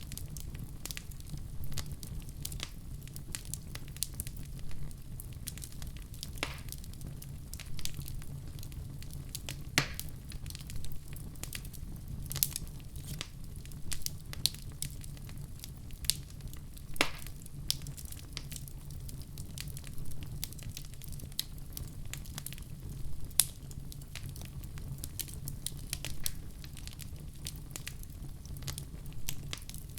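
Fireplace fire crackling, with irregular sharp pops over a steady low rumble; a few pops stand out louder.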